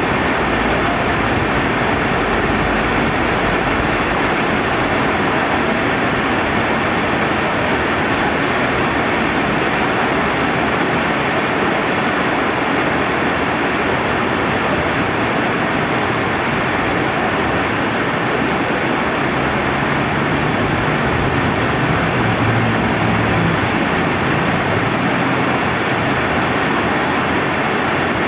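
Steady rain falling, mixed with the rush of river water, an even unbroken hiss.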